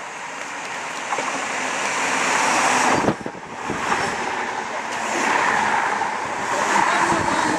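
Class 315 electric multiple unit approaching and running past close by at speed. Wheel-on-rail and air-rush noise grows louder over the first three seconds, dips briefly, then stays steady as the coaches pass.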